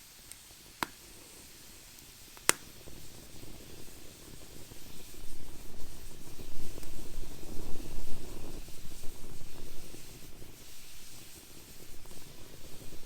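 Wood fire burning in a fire pit: two sharp crackling pops, about one and two and a half seconds in, then an uneven low rushing that swells and fades.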